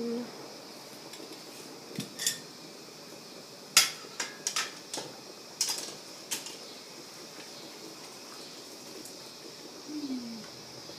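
Scattered sharp clinks and knocks of glass canning jars and metal lids in a pot of water being sterilized, over a steady faint hiss.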